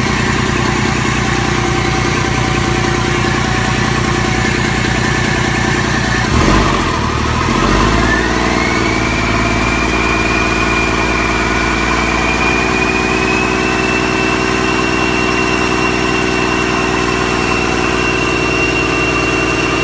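Cummins ISX EGR straight-six diesel engine running steadily on a test run. About six to eight seconds in its sound briefly changes, then a high whine rises and holds steady.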